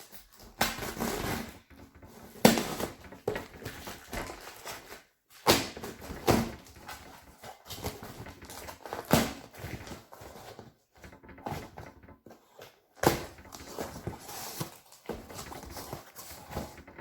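A cardboard box and its packaging being opened and handled: irregular rustling and scraping, with several sharp knocks.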